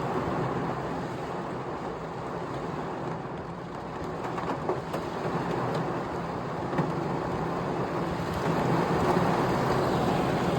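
Heavy rain falling steadily in a storm shower, a continuous hiss with scattered drip taps, growing a little louder near the end.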